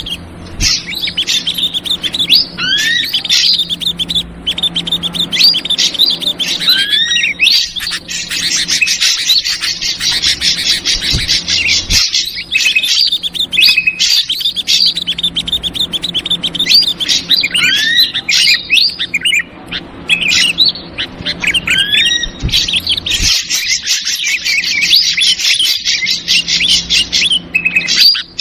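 Bird-lure recording of ashy drongo calls mixed with agitated yellow-vented bulbul chatter. Whistled upslurred and sliding notes alternate with long bouts of very rapid chattering, and the whole sequence repeats about every 15 seconds, like a looped track.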